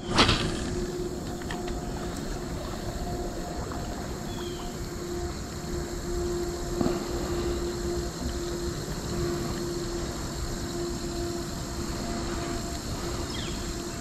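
A distant engine drone holding one steady pitch and wavering in level, over a low outdoor haze of wind or water noise. A sharp knock comes just after the start.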